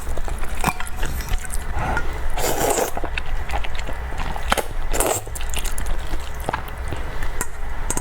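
Close-miked eating sounds of cake being bitten and chewed: soft wet mouth clicks and smacks, with louder squishy bites about two and a half and five seconds in, over a steady low hum.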